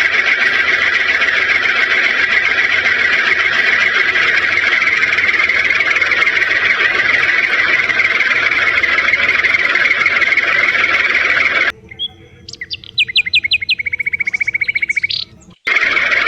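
Steady, high-pitched whir of a small motor, like a toy vehicle's DC motor. About twelve seconds in it cuts off sharply for about four seconds of bird chirps ending in a fast trill, then starts again just as abruptly.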